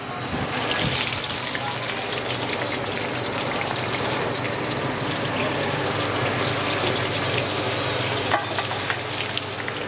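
Sliced onions sizzling in hot mustard oil in a kadhai. The sizzle starts sharply as the onions go in and builds over about a second, then holds steady and loud.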